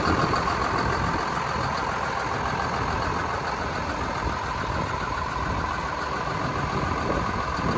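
2007 John Deere 7130 tractor's diesel engine idling steadily.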